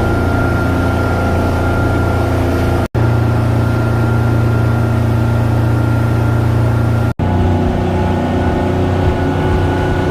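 A motorboat's engine running steadily under way, a deep even hum, broken by two abrupt cuts about three and seven seconds in.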